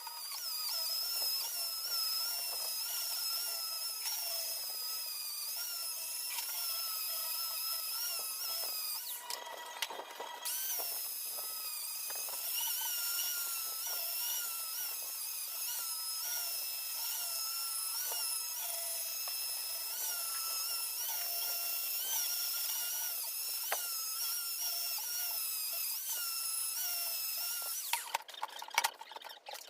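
Electric power tool running at high speed with a steady whine whose pitch sags and recovers about once a second as it is pressed into the work. It stops briefly about nine seconds in, then runs on until shortly before the end.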